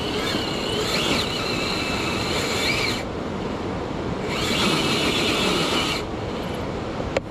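Traxxas TRX-6 6x6 RC crawler's electric motor and geared drivetrain whining under throttle in two pushes, the first about three seconds long and the second about two, the pitch rising and falling as the truck strains to climb. A sharp click near the end.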